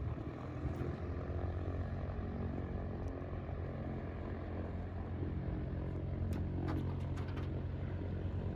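An engine running steadily with a low, even drone, with a few faint clicks near the end.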